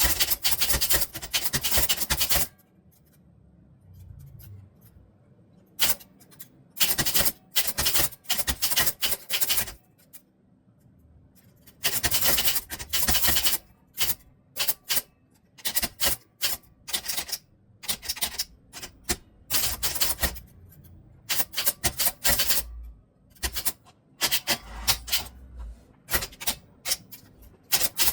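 Fast typing: bursts of rapid key clicks a second or two long, broken by pauses of a few seconds.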